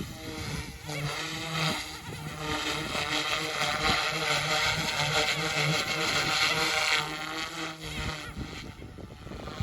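OMP Hobby M2 Evo electric RC helicopter flying, the whine of its rotors and motors wavering up and down in pitch, loudest in the middle and falling away about seven seconds in. Wind buffets the microphone.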